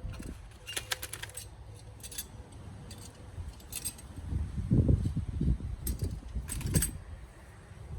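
Small metal motorcycle clutch parts clinking and tapping as they are handled, with a few sharp clinks spread through and duller low knocks in the middle.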